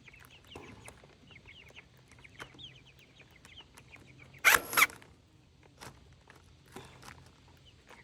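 Chickens clucking in quick, high, falling notes through the first half. About four and a half seconds in comes a loud, harsh noise lasting about half a second.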